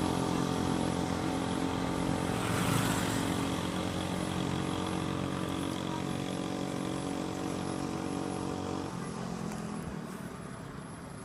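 A motor vehicle engine running with a steady hum that slowly fades, its low drone cutting off about nine seconds in.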